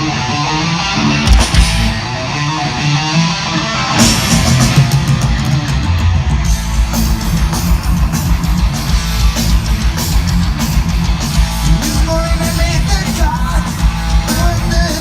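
Thrash metal band playing live: distorted electric guitar riffing over bass, with drums and cymbals coming in fuller about four seconds in and a voice singing near the end.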